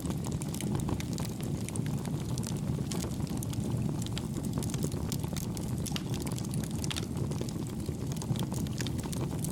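Wood campfire burning: a steady low rush of flames with frequent small, soft crackles and pops.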